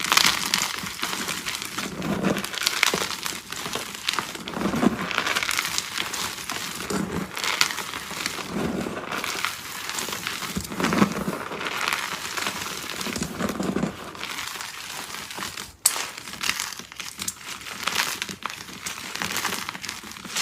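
Close-miked crunching and crumbling of soft dyed chalk: a steady run of crackly, gritty crunches with a dull low swell about every two seconds, and one sharp click about three-quarters of the way through.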